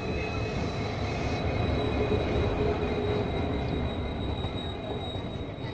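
Two passenger trains passing each other in opposite directions, heard from an open window of one: a steady rumble and clatter of steel wheels on rails as the other train's coaches rush past, swelling louder in the middle.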